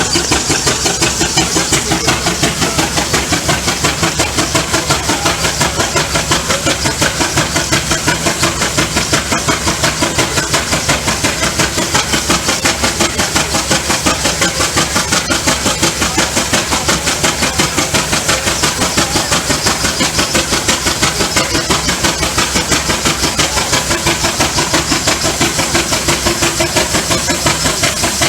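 Allchin steam traction engine working hard under load on a dynamometer: a fast, steady, even beat of exhaust chuffs with a constant hiss of steam.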